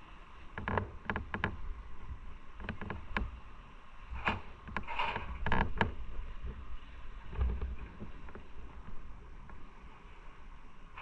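Road and wind rumble from a moving motorcycle, picked up on the bike's own camera microphone. Irregular knocks and rattles come in clusters, the loudest about five seconds in.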